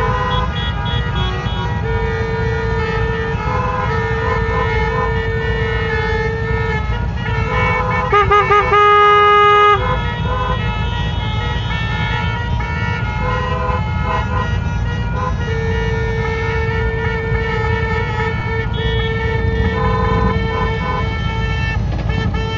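Vehicle horns honking again and again at several different pitches over a steady engine and wind rumble. About 8 seconds in a siren warbles briefly, then gives a loud held blast for over a second.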